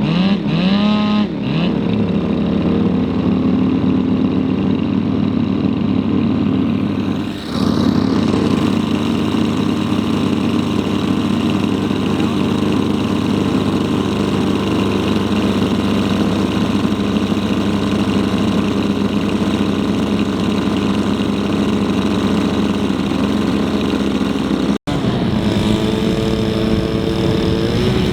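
Large gas engine of a radio-controlled model airplane running at a steady throttle, its pitch rising in the first second or two. The sound breaks briefly about seven seconds in and cuts out for an instant near the end.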